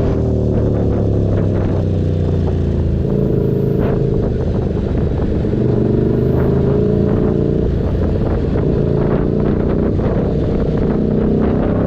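Keeway SCR 250's 250cc V-twin engine running through a Racefit free-flow exhaust, with a steady exhaust note whose engine speed dips slightly early on and climbs again near the end.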